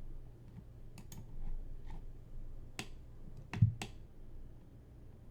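Computer mouse and keyboard clicks: about half a dozen sharp clicks scattered irregularly, the loudest with a low knock about three and a half seconds in, over a low steady hum.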